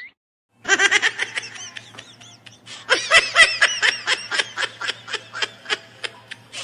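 Laughter sound effect: rapid, high-pitched snickering in quick short bursts, easing off about two seconds in and then picking up again.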